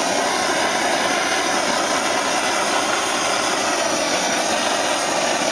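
Hand-held propane torch burning with a loud, steady hiss.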